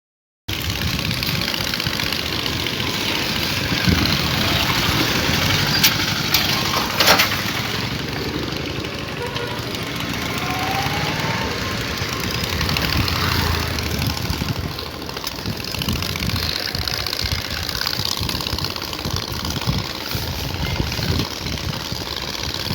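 Engine of a vehicle fitted with two aftermarket exhausts, running steadily at idle with a low pulsing exhaust note. It starts suddenly about half a second in, and a few sharp clicks come about six to seven seconds in.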